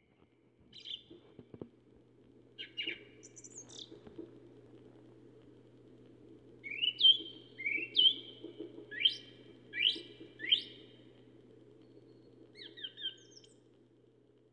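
Songbirds singing: scattered short calls, then a run of loud sweeping notes in the middle and a brief trill near the end, over a faint steady low hum.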